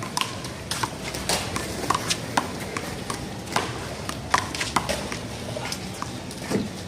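A small rubber handball smacked by hand and bouncing off a concrete wall and pavement during a one-wall handball rally: an irregular string of sharp smacks, roughly two a second.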